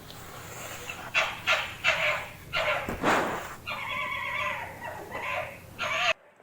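Jackal calling: a quick run of short yips and barks, then a longer whining call, cutting off suddenly near the end.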